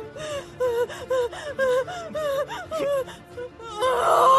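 A woman in labour panting in quick, moaning gasps, about three to four a second, over background music. A sharp, breathy gasp comes near the end.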